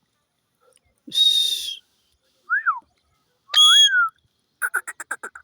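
Parrot whistling and calling: a high whistled note, a short falling note, and a rising-and-falling note, each about a second apart. Near the end comes a quick run of chattering notes, about ten a second.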